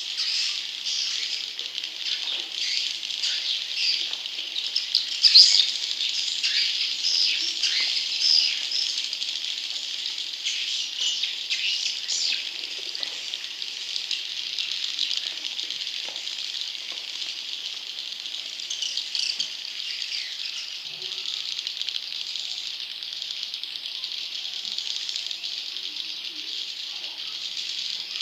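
Swiftlet chicks (edible-nest swiftlets) calling in a dense, continuous chorus of high, buzzy, rattling chirps, a little louder in the first half. This is the chick-call recording used as a lure to draw wild swiftlets into a nesting house.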